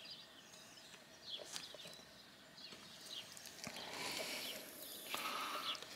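Faint, short bird chirps now and then. About two-thirds through, a brief scraping as a grafting knife shaves an olive scion.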